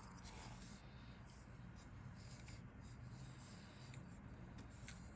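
Faint handling noise: light rustling and a few small clicks over a low steady hum.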